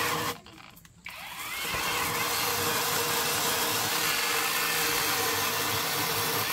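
Battery electric chainsaw cutting oak logs, running steadily. Shortly after the start the motor cuts out for under a second, then spins back up.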